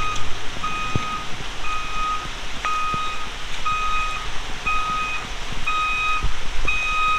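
Vehicle reversing alarm beeping steadily, about one beep a second, as a vehicle backs up.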